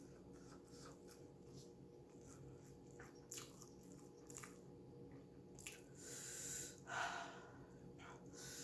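Faint chewing with small wet mouth clicks, then a long hissing breath about six seconds in and a shorter one just before seven seconds.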